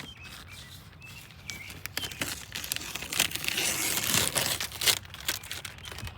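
Masking paper and tape being torn off and crumpled, an irregular crackling and tearing that gets busier about two seconds in.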